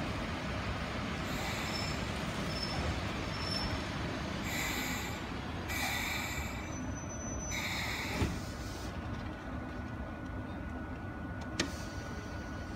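Ohmi Railway 800-series electric train (a former Seibu car) pulling into the platform and braking to a stop: low rumble of the running gear, with squealing from the wheels and brakes in several short bursts in the first two-thirds. A couple of sharp clunks follow as the train halts.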